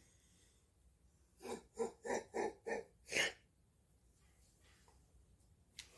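A quick run of about five short breathy vocal sounds, then a louder huff, like a snort or sharp exhale.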